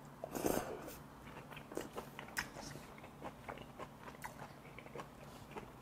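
A man chewing a mouthful of braised kimchi and pork back rib, picked up close by a clip-on microphone. Irregular small clicks and smacks of chewing, loudest about half a second in.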